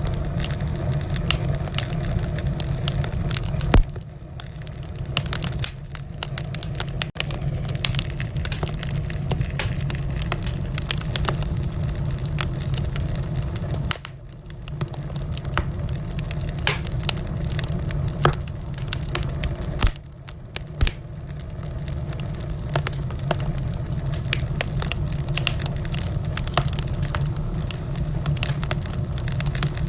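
Wood fire in a fireplace crackling, with a steady low rumble under many small sharp snaps and a few louder pops.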